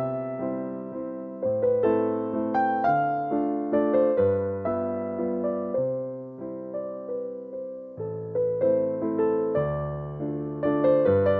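Background music: a gentle solo piano waltz in A minor, its notes struck and left to ring.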